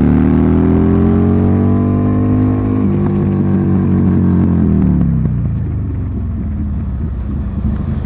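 Buell Lightning XB12S air-cooled V-twin with an aftermarket D&D exhaust, revving up under acceleration. About three seconds in, the pitch drops as it shifts up, it holds steady, and from about five seconds in it falls away and gets quieter as the throttle is rolled off.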